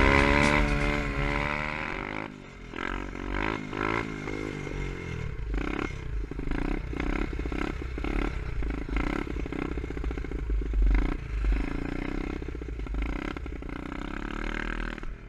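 A 125cc pitbike's single-cylinder engine running with uneven throttle, the revs rising and falling, with clattering and scraping alongside. It is loudest in the first couple of seconds.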